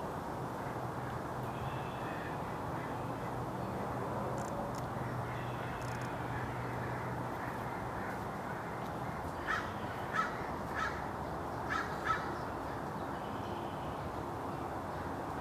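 Steller's jay giving a quick series of about six short, harsh calls a little past the middle, over a steady rushing background noise.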